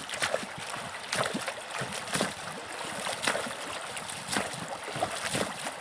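Water running in a stream, with a sharp knock about once a second.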